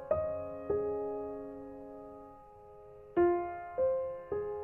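Slow piano music: notes and chords struck about every half second. A chord is left to fade through the middle, and the notes resume with a louder strike about three seconds in.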